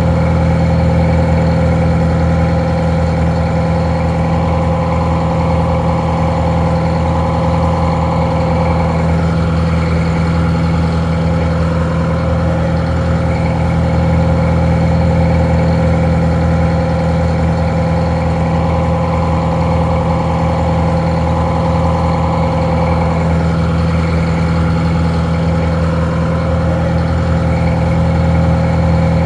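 Detroit Diesel 4-71 two-stroke diesel engine idling steadily, a deep even drone with no change in speed, sounding a little muffled.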